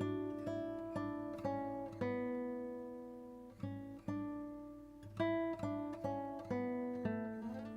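Background music: an acoustic guitar picking and strumming chords, each note struck and left to ring out.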